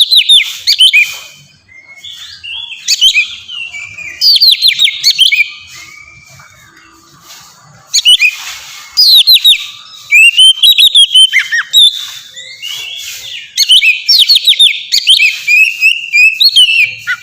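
Oriental magpie-robin (kacer) singing a loud, varied song: bursts of rapid sweeping whistles and trills lasting a second or three, with softer warbling notes between the bursts.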